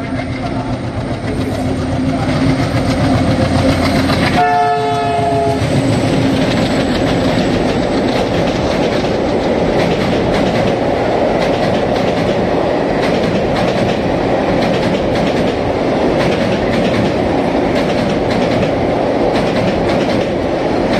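Diesel locomotive drawing near and sounding its horn once, a chord of a little over a second, about four and a half seconds in. Then the passenger coaches run across a steel girder bridge with a steady rumble and regular clickety-clack of wheels over rail joints.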